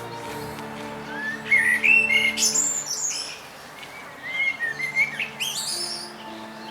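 Eurasian blackbird singing two phrases, each a fluted whistled run that ends in a high twittering flourish, with a pause between them.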